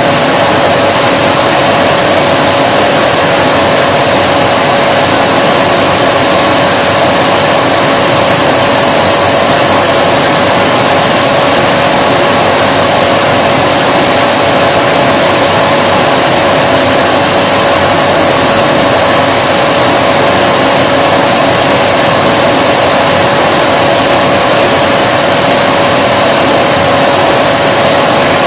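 Vacuum cleaner running steadily: an even rush of air with a constant mid-pitched motor hum and a fainter high whine, unchanging throughout.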